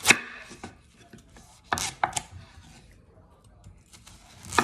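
Knife chopping through a watermelon onto a cutting board: a few sharp chops, the loudest at the start, two in quick succession about two seconds in and another at the end, with quieter scraping between.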